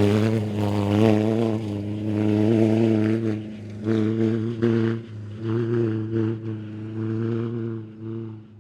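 Off-road race car's engine running at a steady, unchanging speed, with a few sharp knocks over it, growing fainter near the end.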